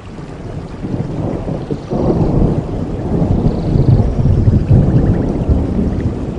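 Thunder rumbling over steady rain. The rumble swells about two seconds in and is loudest around four to five seconds in.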